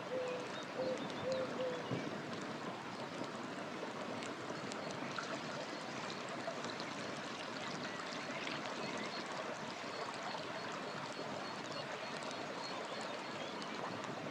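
River water flowing steadily, with light crackling from a campfire. A few short low notes sound in the first two seconds, and from about four seconds in a bird repeats a high note about twice a second.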